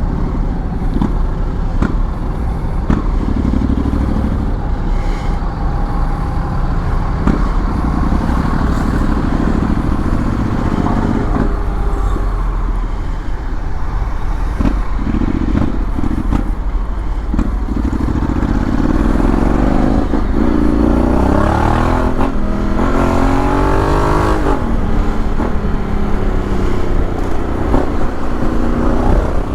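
Honda X-ADV 750 parallel-twin engine under way with heavy wind noise, rising in pitch as the bike accelerates in the second half, easing off about 24 seconds in, then pulling up again near the end.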